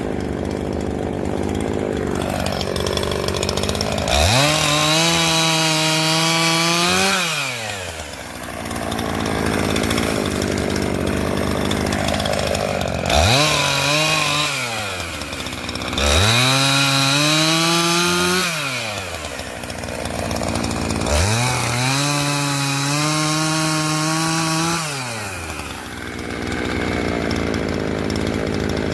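Gas two-stroke chainsaw cutting a branch into firewood lengths. It revs up to full throttle four times, each cut held for two to four seconds, and drops back to a low idle between cuts.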